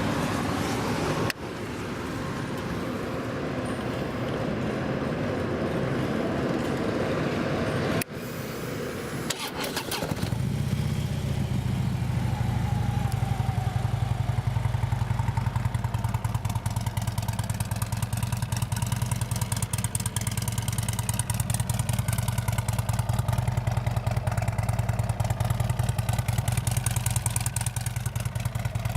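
A steady rushing noise, cut off abruptly twice, then about nine seconds in a Harley-Davidson 103-cubic-inch Twin Cam V-twin is cranked and starts. It idles through a Vance & Hines X-pipe and Rinehart slip-on exhaust with a loud, even, rapid pulsing.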